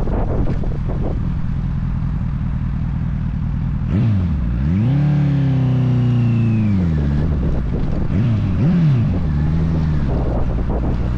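Wind buffeting the microphone of a motorcycle at highway speed, with the motorcycle's engine note coming through from about four seconds in. The engine's pitch dips and climbs back there, and twice more a little later, then holds steady.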